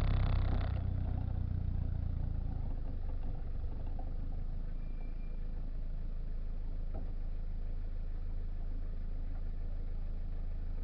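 Turbo-diesel XUD7TE engine in a Citroën Visa, heard at the exhaust. It comes off a rev about a second in, then settles into a steady idle.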